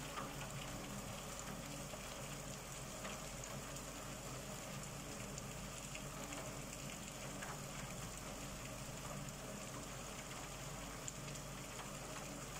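Steady rain falling outside, an even hiss with a faint patter of drops; ordinary rain rather than a downpour.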